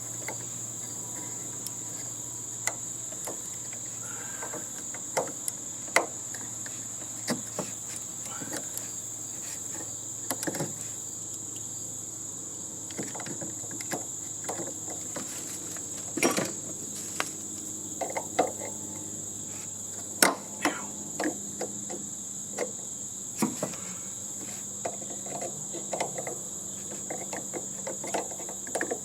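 Irregular clicks, knocks and clanks of hand tools working apart a heating and air-conditioning unit's metal housing, over a steady high-pitched hum.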